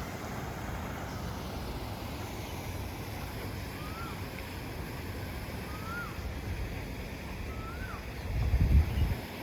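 Wind buffeting the microphone as a steady low rumble, with a stronger gust near the end. A bird calls three times, a short whistle that rises then falls, about every two seconds.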